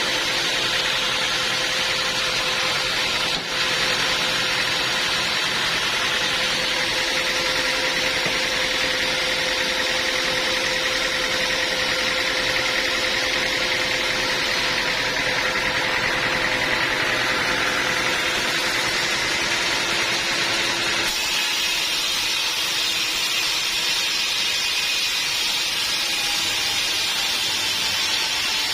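Sawmill machinery running steadily, most likely a band saw mill. There is a brief dip about three and a half seconds in, and the tone shifts about two-thirds of the way through.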